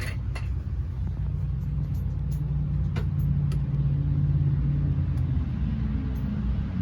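Vehicle engine running steadily with a low rumble, its pitch rising a little around the middle and easing off near the end.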